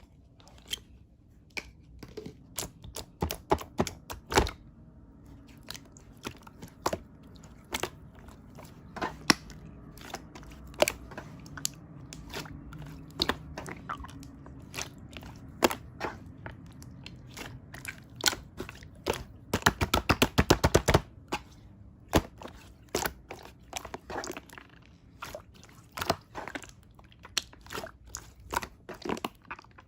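Clear green slime being played with, making sticky clicks and small pops, with a quick run of rapid clicks about two-thirds of the way through.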